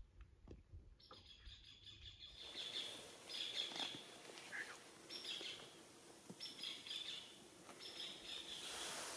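Faint songbird calls in woodland: short high chirps that start about two seconds in and repeat every second or so.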